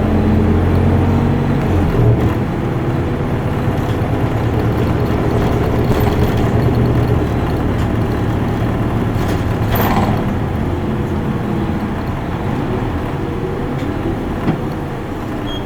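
Isuzu Erga Mio city bus's diesel engine running under way, heard from inside the passenger cabin with road and tyre noise; the deep engine note drops back about two seconds in.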